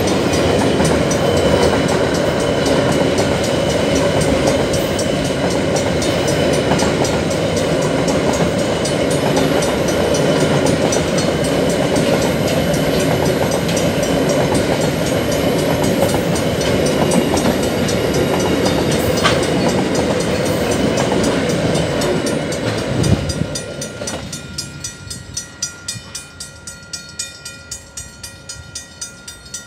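Long container freight train rolling across a level crossing, its flat wagons rattling and wheels clacking over the rails, with the crossing's mechanical bells ringing under it. About 24 seconds in the train clears and its noise drops away, leaving the mechanical bells ringing alone in quick, even strokes.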